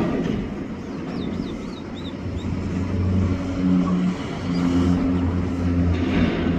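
A motor vehicle's engine running steadily, a low hum that comes up about two and a half seconds in and holds.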